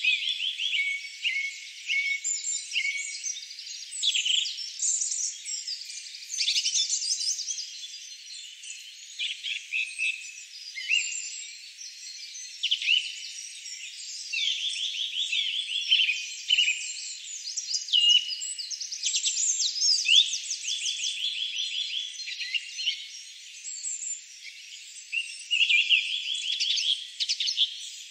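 Several songbirds singing and chirping at once, overlapping high chirps and quick trills with no break.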